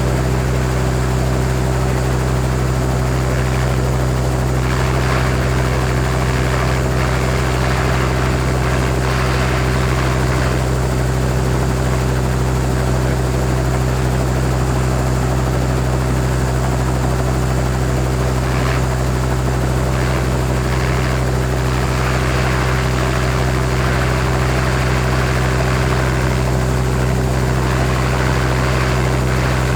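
Helicopter idling on the ground, engine and rotor running at a steady low hum with constant turbine hiss.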